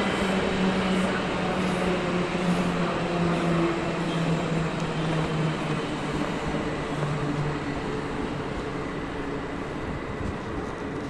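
A train running through the station: a continuous rumble with a low hum that slowly falls in pitch, and the whole sound gradually getting quieter.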